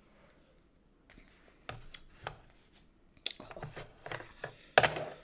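Scattered short clicks and crinkles of someone eating and handling fast food and its wrapping, with a sharper crackle about three seconds in.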